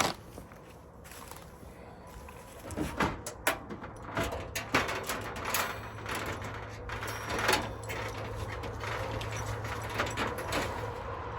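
Knocks, clicks and clanks of camp-cooking gear being handled and set out on a truck tailgate, most of them in the middle of the stretch. A steady low hum runs underneath from a few seconds in.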